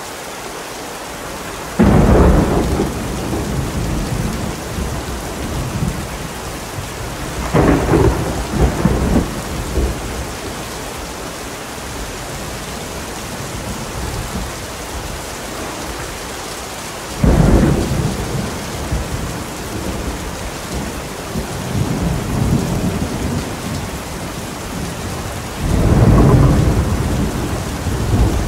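Steady heavy rain with thunder: four sharp thunderclaps that rumble on for a second or two each, spread through the stretch, over a continuous hiss of rainfall.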